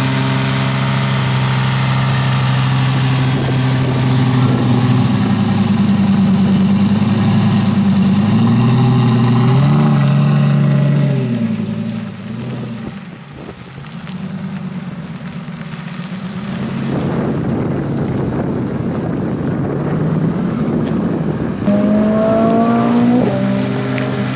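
Lamborghini Gallardo's V10 running through a Capristo exhaust: a steady loud drone at first, then the pitch rises and falls several times as it is revved. It drops quieter for a few seconds before rising again, with a climbing rev near the end.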